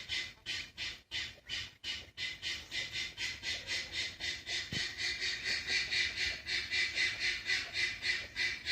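Small birds chirping in a rapid, even series of high chirps, about five a second, without a break.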